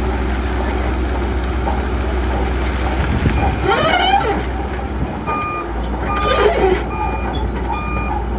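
Diesel engine of a heavy earthmoving machine running steadily under work. About five seconds in, a reversing alarm starts beeping a little faster than once a second. Two short wavering high-pitched squeals come in the middle.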